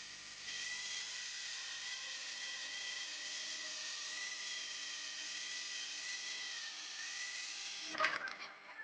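An electric power tool running steadily with a high whine, starting about half a second in. It stops with a sudden clatter near the end.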